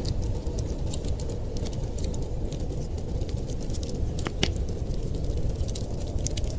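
Wood fire crackling in a fireplace: irregular sharp pops and snaps over a steady low rumble, with one louder pop about four and a half seconds in.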